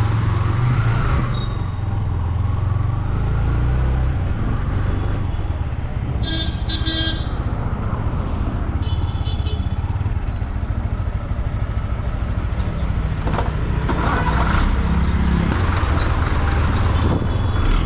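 A motorcycle engine runs steadily while riding through city traffic, with wind rumble on the microphone. Vehicle horns honk about six seconds in and again around nine seconds.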